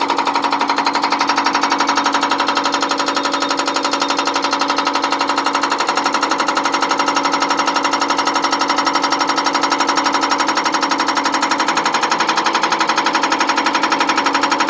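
Electric demolition hammer running without a break, hammering concrete in rapid, even blows with a steady motor whine.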